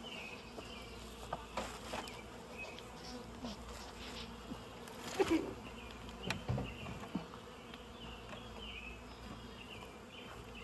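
Honey bees from a swarm buzzing steadily in the air, with a few faint clicks and knocks as the hive frames are handled.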